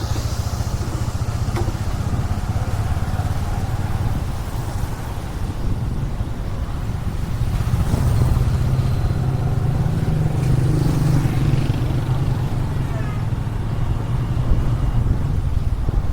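Motorcycle engine running steadily while riding, with road and wind noise; the engine note climbs a little about halfway through as it speeds up.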